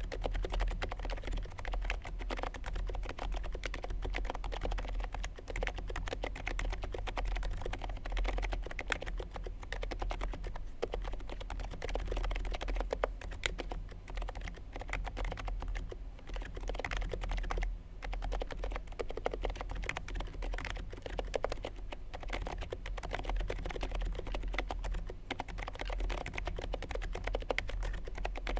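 Continuous fast typing on a Niz Duo 82 electro-capacitive (Topre-style) keyboard with lubed sliders, Deskeys Purple rubber domes and GMK Modern Dolch keycaps on an FR4 plate: a dense run of keystrokes with brief pauses.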